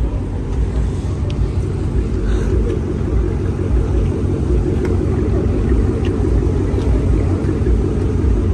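Car engine and exhaust running with a steady low rumble, with no clear revving or change in pitch.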